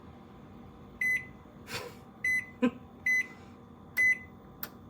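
Toshiba countertop microwave/air fryer combo's control panel beeping as its buttons are pressed: four short, high beeps at uneven intervals of about a second, with a faint tap or two between them and a faint steady hum underneath.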